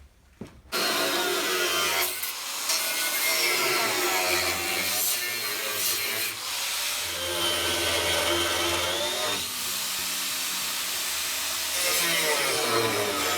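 Angle grinder working on the steel chassis rail, starting about a second in; its whine wavers up and down in pitch as the load on the disc changes.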